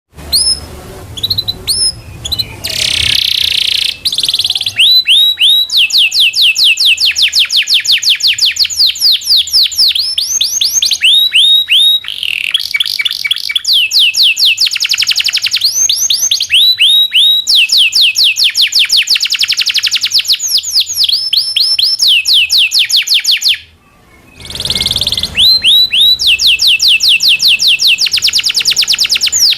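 Domestic canary singing: long rolls of fast, repeated sweeping high notes mixed with chirps, with one short break late on.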